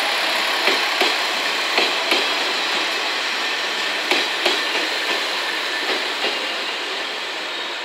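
KiHa 47 diesel railcar set passing at low speed: a steady rolling noise with its wheels clicking over rail joints in pairs, the pairs about a second apart and growing fainter near the end.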